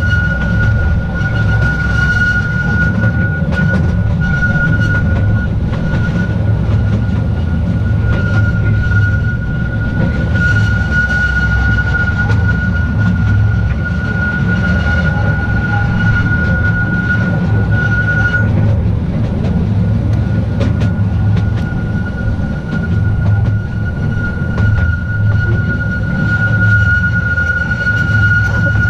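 Petit train d'Artouste, a small narrow-gauge mountain train, running along its track, with a steady low rumble. A steady high tone rides on top of the rumble and drops out briefly about two-thirds of the way through.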